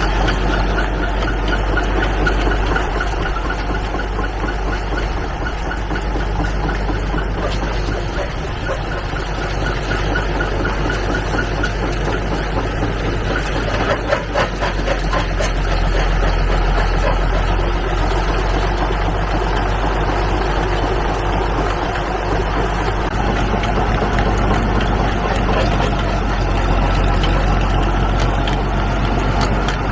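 1949 Oliver six-cylinder tractor engine running steadily while powering a vintage rock crusher, with a brief cluster of knocks about halfway through.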